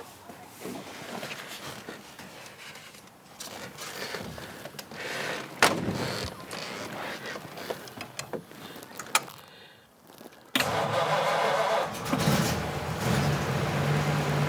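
Knocks and clicks with two sharp bangs, then about ten and a half seconds in a 1936 Ford's flathead V8 is cranked by the starter, catches after a second or two and settles into a steady idle.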